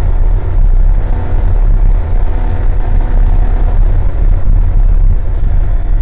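Porsche 911 (964) air-cooled flat-six race engine running hard at speed, a loud, steady low drone heard inside the car's cabin, dipping briefly about two seconds in.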